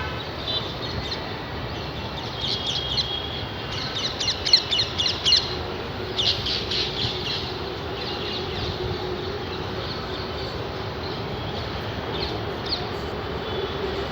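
Birds calling in quick clusters of short, high chirps, busiest in the first half and sparser later, over a steady outdoor hiss and a faint low drone.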